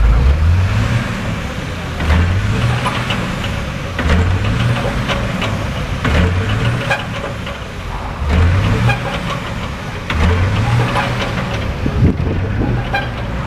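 Truck engine revving again and again, its low note rising about every two seconds.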